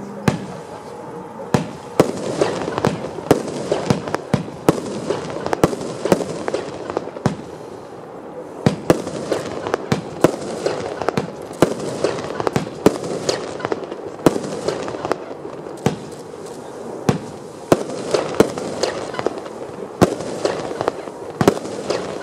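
Funke "Strobe Variations" firework going off: a dense run of sharp cracks at irregular intervals, several a second, over a steady rushing noise.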